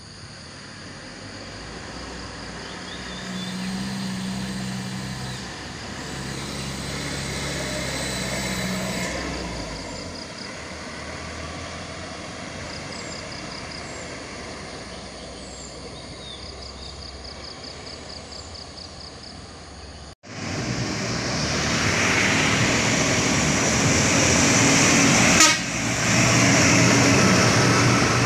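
Truck engines running on a steep mountain road, with two long, steady horn blasts in the first ten seconds. About twenty seconds in the sound cuts sharply to louder engine and road noise close by.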